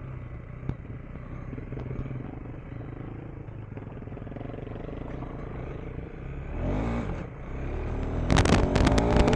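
Single-cylinder engine of a KTM 390 Enduro R dual-sport motorcycle running steadily under way, rising in pitch briefly about two-thirds of the way in. Near the end a loud rattling clatter comes in over the engine.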